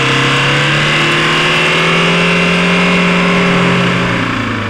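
The engine of an overturned rally car, lying on its roof, still running on at steady high revs: a loud, even drone that sags and fades slightly near the end.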